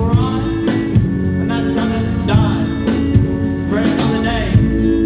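Live rock band playing a song: drums keeping a steady beat under sustained guitar chords, with a voice or lead line gliding over the top.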